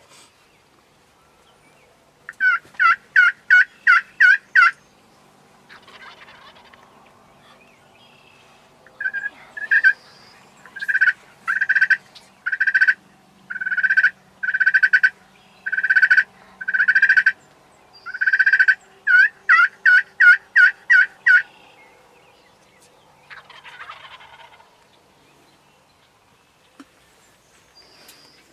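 Hen turkey yelps worked on a hunter's turkey call: a quick run of about eight short raspy notes, then after a pause a longer, slower series of drawn-out yelps speeding up again at the end. A fainter, distant gobble answers about 6 seconds in and again near 24 seconds.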